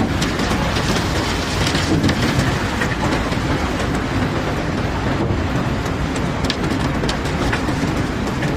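Cobblestones sliding and tumbling off a barge's deck: a dense, continuous clatter of stones knocking against each other over a low rumble.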